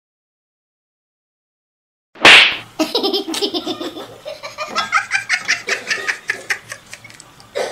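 After about two seconds of silence, a sudden loud burst, then a person laughing hard in quick, repeated bursts.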